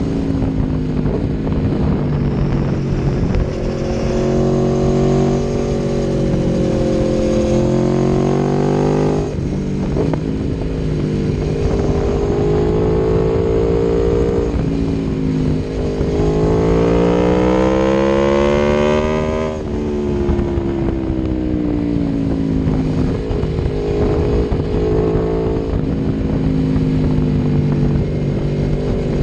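Aprilia Tuono V4 1100's V4 engine through an Akrapovic exhaust, running under way. The note holds steady, rises twice, and near the middle climbs hard to a high rev before dropping back and settling.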